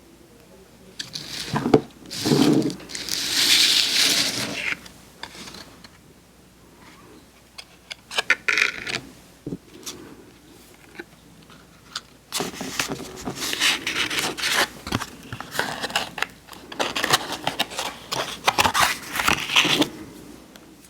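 Close-miked paper crinkling, tearing and scraping in irregular bursts, the longest in the second half.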